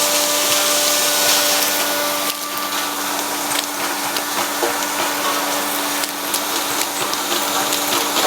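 Wet-and-dry vacuum cleaner running with a steady hum and hiss while sucking up small beads and grit from the floor; from about two seconds in the beads and stones click and rattle as they are pulled through the hose.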